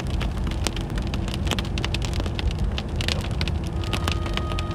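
Rain striking a moving car as many sharp, separate taps, over the steady low rumble of the vehicle driving.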